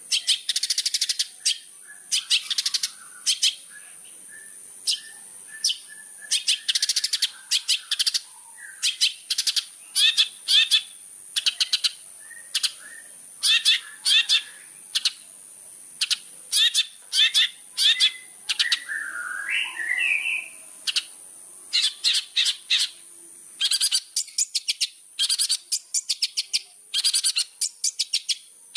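Long-tailed shrike (cendet) singing: runs of short, sharp chattering notes in quick bursts with brief pauses, and a softer warbling phrase about two-thirds of the way through.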